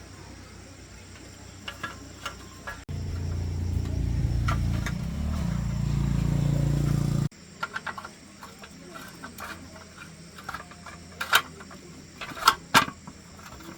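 Light metallic clicks and taps of hand work on motorbike parts. In the middle, a loud low steady running sound lasts about four seconds, starting and cutting off abruptly.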